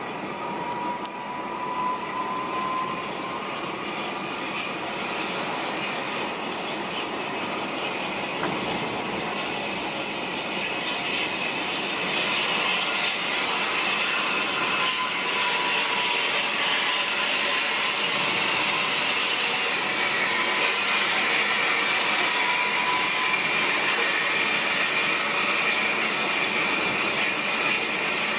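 Large diesel intercity bus running: a steady engine and road noise with a faint high whine, growing somewhat louder partway through.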